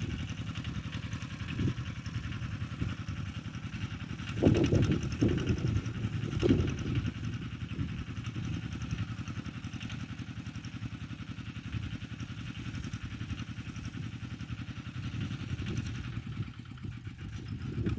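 Engine of a ploughing machine running steadily, with a few louder surges about four to seven seconds in.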